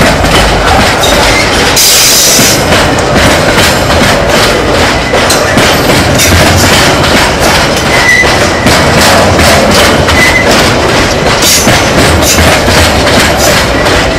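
Freight wagons of a long train rolling past close by: a steady rumble with wheels clacking over the rail joints. A short hiss comes about two seconds in, and brief faint wheel squeals come around eight and ten seconds in.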